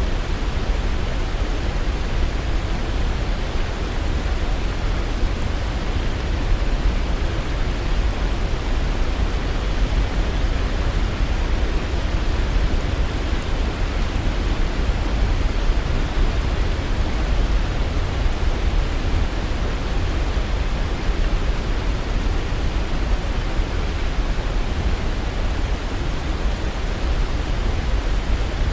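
Waterfall: falling water rushing in a steady, even wash, heaviest in the low end, with no change.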